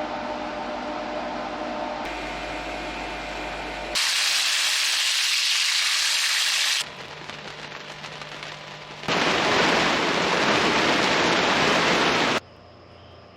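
Heavy rain in short cut-together clips: a steady mechanical hum with a low drone first, then loud rain hiss for about three seconds, a quieter spell with a low hum, and loud rain again. Near the end it cuts suddenly to a much quieter scene with a faint, steady high tone.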